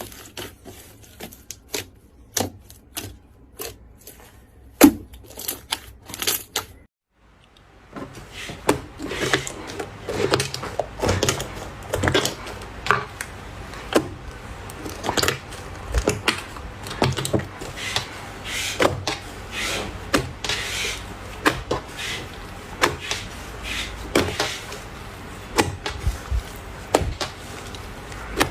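Slime being pressed and squished by hand, making crisp clicking and crackling pops. After a short break about seven seconds in, the crackling comes back denser.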